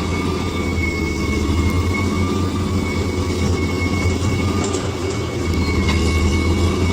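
Bulldozer's diesel engine running steadily at working load, with a thin, steady high whine above the engine.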